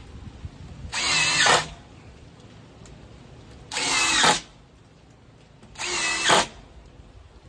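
Power drill run in three short bursts of about half a second each, its motor whining up in pitch at the start of each.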